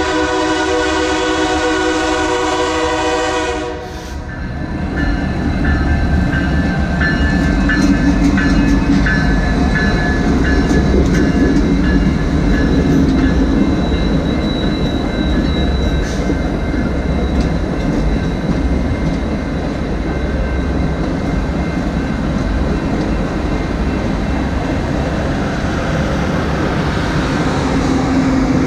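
Diesel locomotive horn sounding a held chord that cuts off about four seconds in, then the train passing close: locomotive rumble and the wheels of passenger cars clicking over the rail joints. Through the middle, a grade-crossing bell dings at an even pace.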